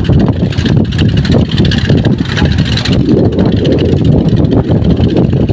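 Strong wind buffeting the microphone: a loud, uneven low rumble that keeps going throughout.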